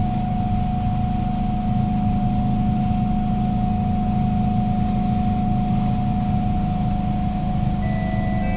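Steady hum with a constant high whine inside a Kawasaki Heavy Industries C151 MRT carriage standing at the platform with its doors open, from the train's onboard equipment. A couple of higher tones come in near the end.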